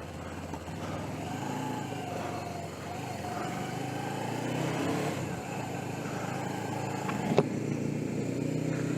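Suzuki GS500E's air-cooled parallel-twin engine running on the road, its note rising and falling with the throttle, with one sharp click about seven seconds in.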